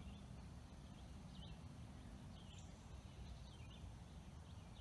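Faint bird chirps, short and high, repeating about once a second over a low steady rumble of outdoor background.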